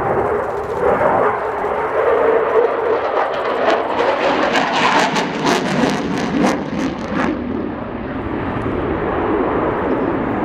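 RAF Typhoon FGR4's twin Eurojet EJ200 jet engines at high power, a steady loud jet noise. A run of sharp crackles comes through the middle few seconds.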